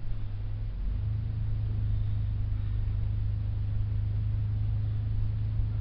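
Steady low engine hum, dipping briefly about a second in and then holding even.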